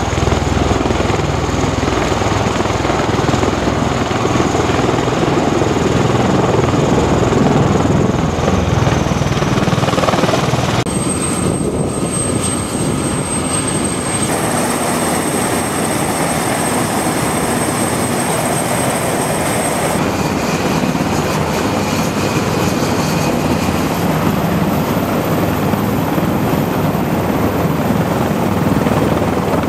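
Navy helicopter running loud and steady, its rotor and turbine noise changing abruptly about eleven, fourteen and twenty seconds in. A thin high whine sounds from about eleven to twenty seconds in.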